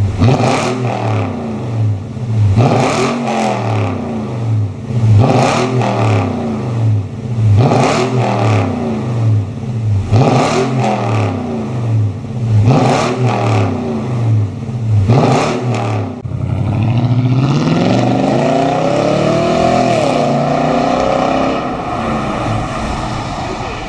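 Toyota Tundra pickup's engine blipped through an aftermarket dual valved exhaust: about seven quick throttle blips, each rising and falling back, then a longer rev held higher that slowly climbs and wavers before cutting off.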